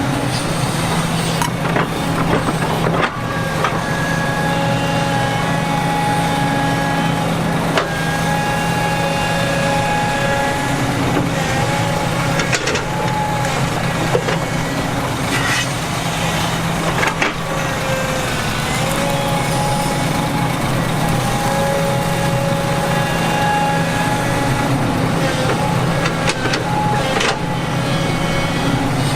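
Heavy diesel earthmoving machinery running steadily, with a high whine held over the engine drone and scattered sharp clanks and knocks.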